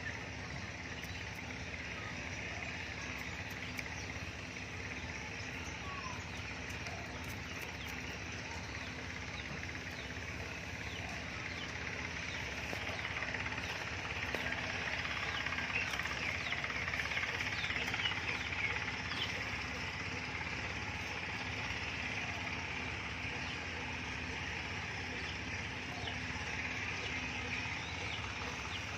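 Steady outdoor background: a low rumble under a dense high chirring haze that swells in the middle, with faint short chirps scattered through it.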